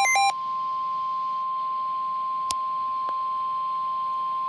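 The last of an Emergency Alert System SAME header, fast warbling digital data tones, ends a moment in. It is followed by the steady single-pitch 1050 Hz National Weather Service warning alarm tone, held without a break, which signals that a severe weather warning is being broadcast. A sharp click comes about two and a half seconds in.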